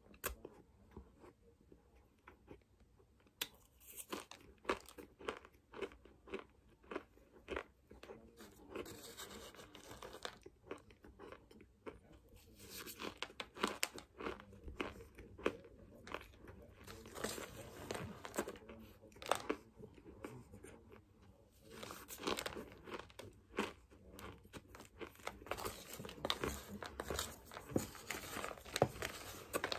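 Close-miked crunching and chewing of a mouthful of raw cornstarch, with many irregular sharp crunches starting a few seconds in.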